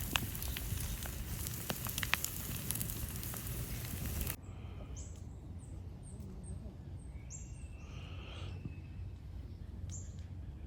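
Campfire crackling, a steady hiss with many sharp pops, cutting off abruptly about four seconds in. Then small birds give several short, high chirps over quiet outdoor background.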